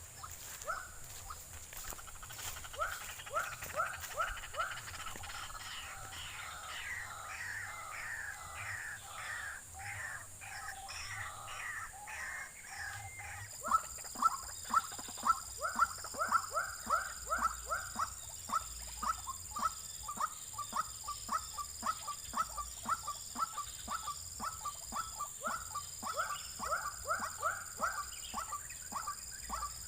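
White-breasted waterhen calling in a long run of short rising notes, several a second. The series grows louder and faster about halfway through.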